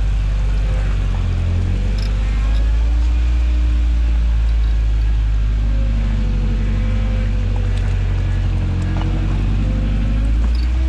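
Toyota truck engine running steadily while off-roading, its pitch rising and falling gently, with a few faint knocks.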